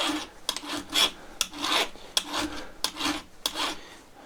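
Flat file rasping across the steel rakers (depth gauges) of a Stihl MS-661 chainsaw chain, in repeated even strokes about one and a half a second, with small clicks as the file is set back between strokes. The rakers are being taken down to a uniform height to set the depth of cut.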